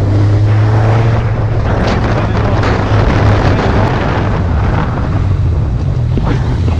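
Suzuki GSX650F motorcycle's inline-four engine running at a steady pace while riding, under heavy wind noise on the microphone.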